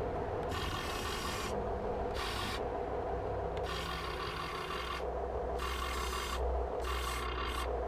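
Huina 1580 RC excavator's electric servos and metal gearing whirring and grinding in a series of short bursts as the arm and bucket are worked, over a steady low hum.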